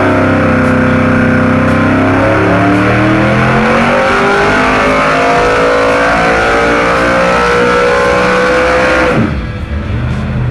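583 cubic-inch big-block Chevrolet V8 making a full-throttle pull, its pitch climbing steadily as revs build for several seconds, then the throttle closes about nine seconds in and the revs fall away to a lower, quieter run.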